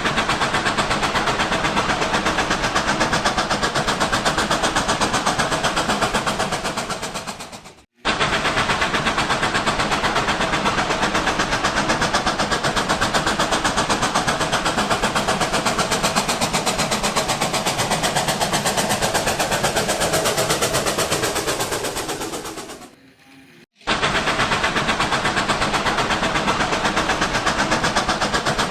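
Miniature electric RailKing toy train running on its track: a steady, rapid clatter of wheels and motor. Twice the sound fades away, then stops abruptly and comes back at full level.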